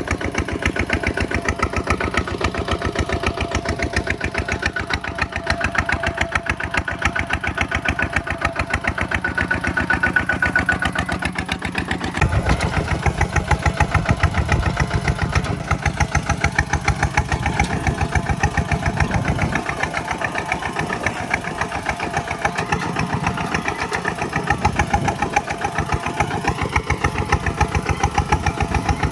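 Kubota tractor diesel engine running steadily with a rapid, even knocking beat. About twelve seconds in, the low beat grows heavier and a little louder for several seconds, then eases back.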